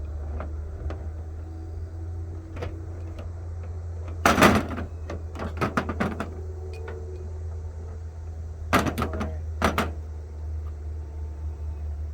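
Clicks, clanks and knocks of plumbing parts and tools being handled and fitted, in clusters, loudest about four seconds in and again around nine seconds, over a steady low hum.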